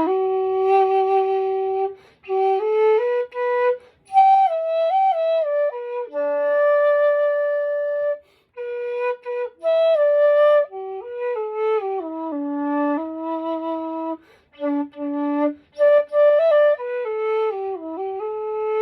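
Nanxiao, an end-blown bamboo flute in G, played solo and unaccompanied: a single melody of held and sliding notes, in phrases broken by short pauses.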